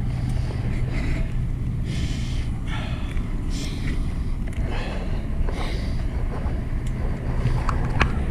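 Steady low rumble of wind and road noise on the camera's microphone while riding a fixed-gear bike, with traffic sounds mixed in and a sharp click near the end.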